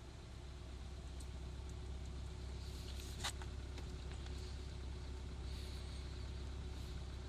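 VW 1.4 TSI turbocharged four-cylinder petrol engine idling steadily just after a cold start in deep frost. A single sharp click about three seconds in.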